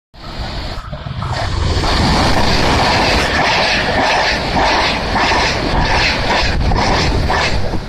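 A passenger train passes close by at speed: a loud steady rush of wheels on rail that starts abruptly and builds over the first two seconds. Over it runs a regular clatter of the wheels crossing rail joints, two to three beats a second.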